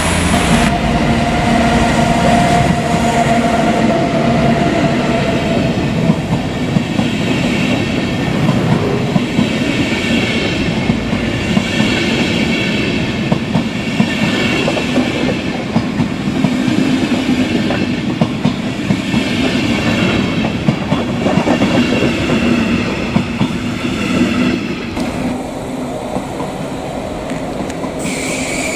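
A train running on the tracks with a steady heavy rumble. Its wheels click repeatedly over the rail joints, with a high, even whine during the first few seconds.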